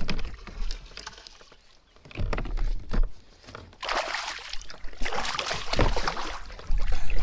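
Water splashing and knocks against a kayak as a hooked bass is fought and landed beside it, with two longer bursts of splashing about four and five and a half seconds in.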